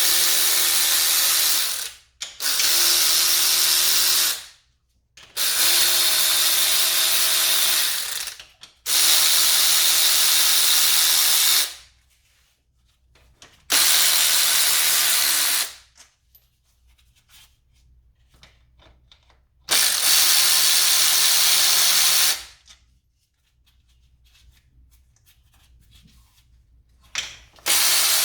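Power ratchet running in repeated bursts of two to three seconds, about six times, spinning out the 10 mm rocker cover bolts on a Toyota 2AZ-FE engine. Faint clicks of bolts being handled fall in the quieter gaps.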